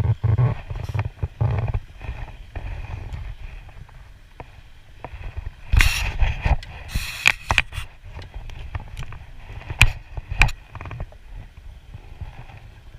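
Knocks and clatter of gear and paddle against a fishing kayak, with water movement, and two louder rushes of noise about six and seven seconds in.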